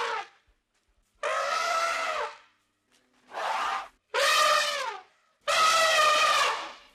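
An animal calling four times, each call about a second long, held at a fairly steady pitch with a brassy, trumpet-like tone.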